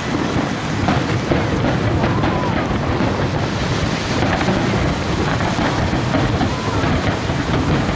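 Japanese aerial firework shells going off in a continuous barrage, with dense crackling and no pauses between the bursts.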